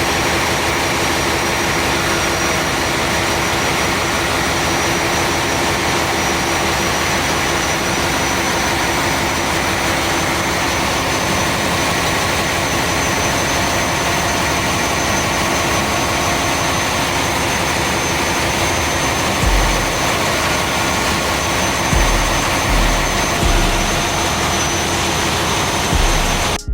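Loud, steady machinery noise of a ship's engine room with running diesel engines, with a steady high whine over the din. Several low thumps come in the last seven seconds.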